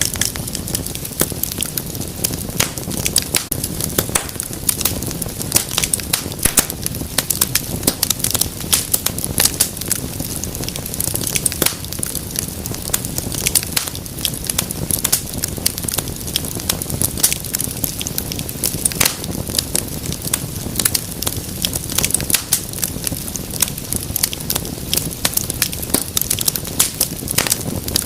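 Wood fire crackling steadily: dense, irregular sharp pops and snaps over a low rumble of flame.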